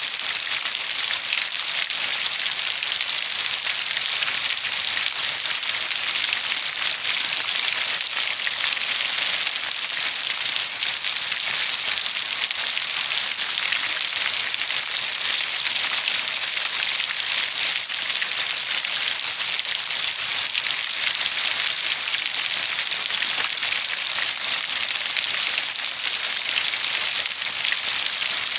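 Steady rain falling, an even hiss of many drops with fine patter, unchanging throughout.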